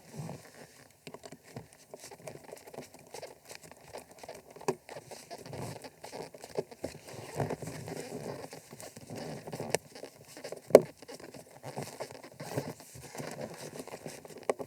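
Hands working loose seat-hinge hardware on a boat: irregular small clicks, rattles and rustles, with one sharp knock about eleven seconds in.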